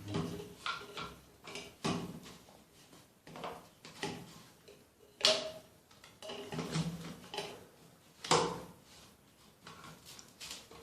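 Irregular knocks, clicks and scrapes of plumbing tools and fittings being handled while a bathroom basin is fitted, with three sharper knocks about two, five and eight seconds in.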